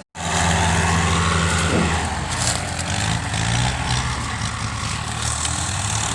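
Tractor diesel engine running steadily, starting abruptly after a very short break in the sound.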